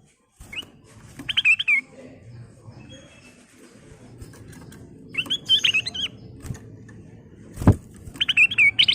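Kutilang emas bulbul singing in short, quick phrases of bubbly whistled notes, four bursts with pauses between. A sharp knock about three quarters of the way through.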